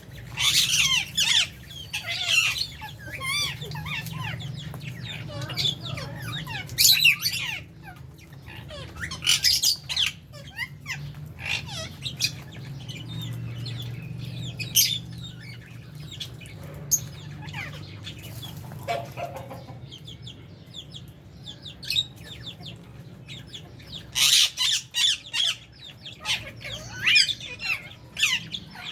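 Flock of lovebirds and budgies chirping and screeching in an aviary, in loud clusters of short shrill calls with quieter chatter between, over a steady low hum.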